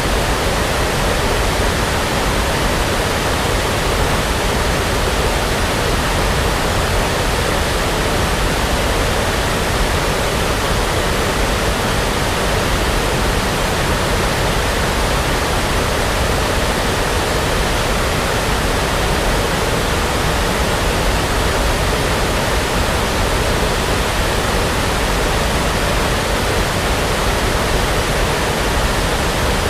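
Steady brown noise: an even, unchanging rushing hiss like a distant waterfall, with no breaks or events.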